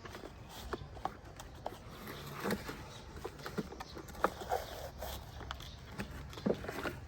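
Irregular light clicks and knocks, scattered unevenly, over a faint low background rumble.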